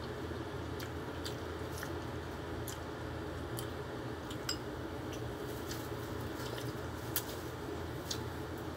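A person chewing a mouthful of food, with wet squishy mouth sounds and scattered sharp clicks of lips or spoon, over a steady low hum.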